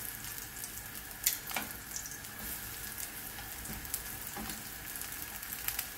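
Slices of roasted breadfruit sizzling steadily as they fry in oil in a nonstick frying pan, with a couple of sharp clicks from metal tongs against the pan about a second and a half in.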